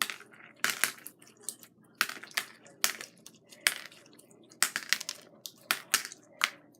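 Jiggly slime with beads in it being squeezed and worked by hand, giving sharp crackling clicks at an irregular pace of about two a second.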